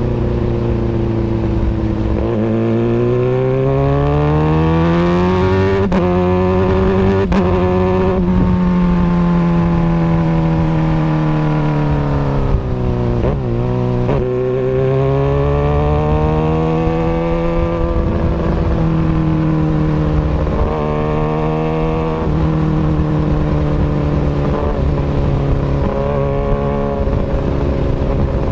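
Kawasaki Ninja ZX-636 inline-four running through an Austin Racing exhaust. The engine pitch rises as the throttle opens, falls away slowly, rises again and then settles, with a few sharp clicks along the way.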